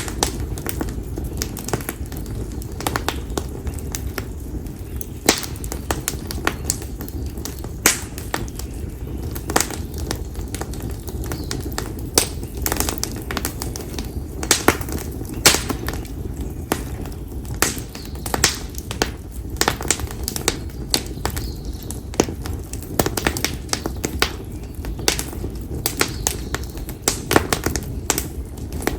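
Split konara oak firewood burning in a campfire, crackling with irregular sharp pops, some much louder than others, over a steady low rumble.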